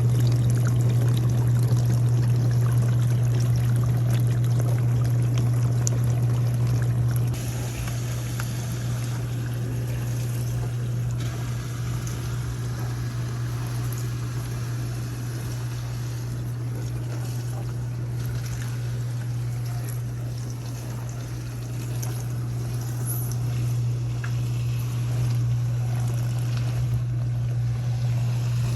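Dishwasher running with its motor humming steadily and water splashing and pouring inside. The sound drops a little in level about seven seconds in.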